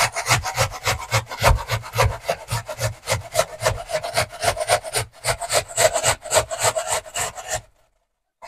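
Onion being grated on a hand grater: quick, even rasping strokes that stop abruptly about a second before the end.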